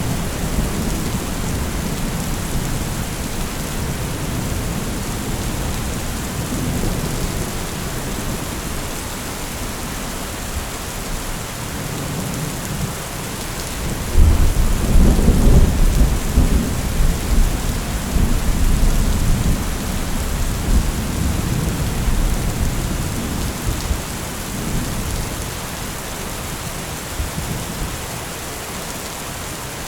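Steady rain falling, with a deep roll of thunder that breaks in suddenly about halfway through and rumbles on for several seconds before fading back under the rain.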